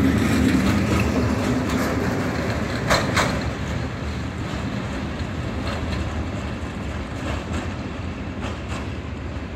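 Freight train of covered hopper wagons rolling past, the wheels clacking over rail joints, with two sharp clacks about three seconds in. The rumble then fades steadily as the train draws away.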